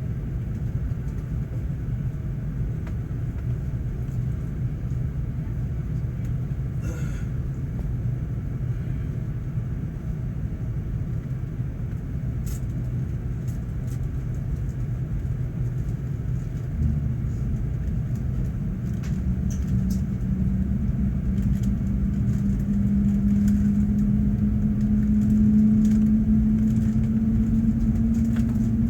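Airbus A380's Engine Alliance GP7200 turbofan starting, heard inside the cabin: a steady low rumble, then about halfway through a low hum sets in and slowly rises in pitch and grows louder as the engine spools up.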